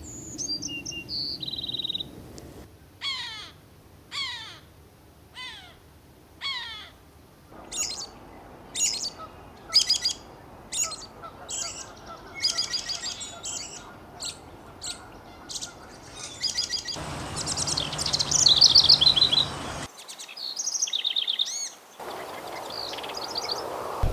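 Several different wild birds calling and singing one after another, the background changing abruptly between short recordings. One bird gives a falling call five times about a second apart, and later a louder, rapid trilling song comes in.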